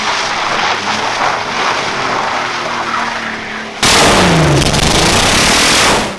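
Audi A3 3.2 VR6 engine running loud with a dense exhaust roar, its pitch falling in places. About four seconds in it becomes suddenly louder, with the pitch dropping, before cutting off abruptly at the end.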